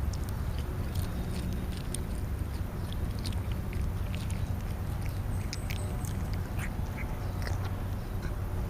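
Birds at a feeder calling: a scatter of many short, high chirps and squeaks, over a steady low rumble.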